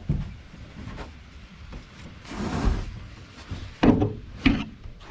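Plywood deck panel being slid into place on aluminum angle in an aluminum boat: a brief scrape about halfway through, then two sharp knocks as it drops and settles, with a lighter knock at the start.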